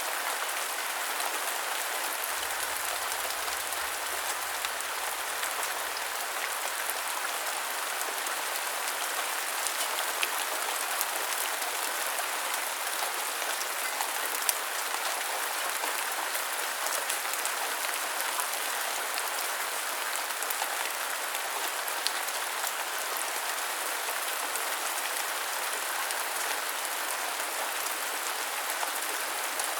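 Steady rain falling, a constant hiss scattered with sharper ticks of individual drops.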